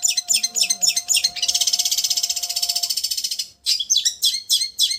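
Long-tailed shrike singing: a quick run of sharp, high notes, then a fast rattling trill (the 'getar' trembling style) lasting about two seconds, a brief break, and more sharp notes.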